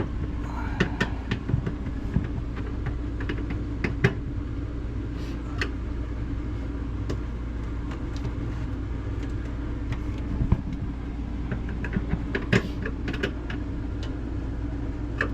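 A steady low mechanical hum, with scattered light clicks and knocks of parts being handled inside a refrigerator.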